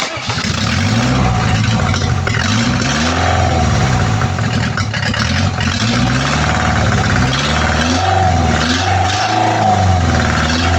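Engine of a homemade tractor running and being revved up and down over and over, its pitch rising and falling in repeated swells. It starts suddenly at full loudness.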